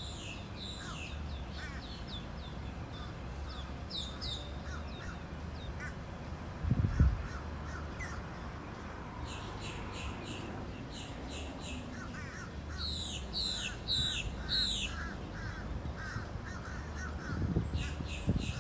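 Birds calling in repeated runs of short, sharp, falling calls, over a steady low rumble. A brief low thump about seven seconds in.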